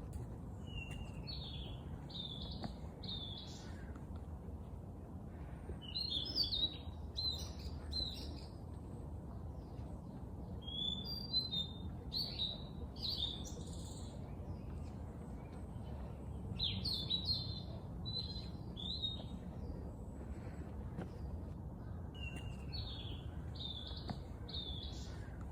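A songbird singing short phrases of quick chirping notes, a phrase roughly every five seconds, over a steady low background rumble.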